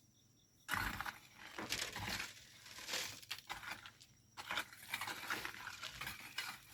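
Volcanic sand and gravel being scraped and crunched with a hand tool, in irregular gritty strokes with small stone clicks, starting about a second in.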